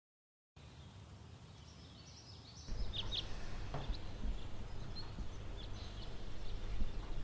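Small birds chirping now and then over a steady low background rumble, which gets louder a little over two seconds in, after a brief silence at the start.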